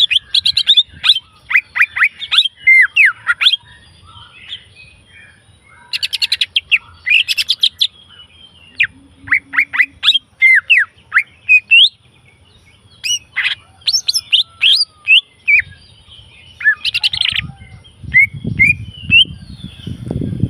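Green leafbird (cica ijo) singing: bursts of rapid chirps and sharp downward-sweeping whistled notes, delivered in phrases of a second or two with short pauses between them. A low rumble comes in near the end.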